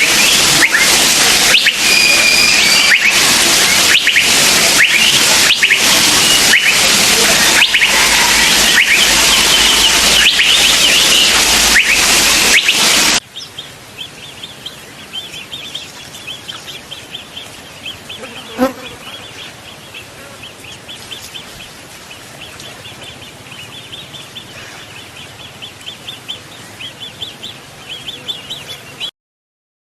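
Wild birds whistling and calling over a loud insect chorus. About thirteen seconds in, it cuts abruptly to a quieter recording of rapid, repeated high chirps, with one soft knock partway through.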